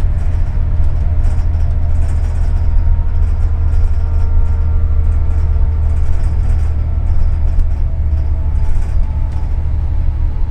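Double-decker city bus under way, heard from inside the cabin: a steady, loud low rumble from the engine and road, with a faint whine through the middle.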